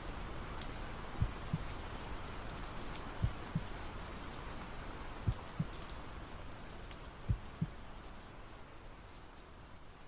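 Soft steady rain with a slow heartbeat over it: four double beats (lub-dub), one about every two seconds. Both fade out near the end.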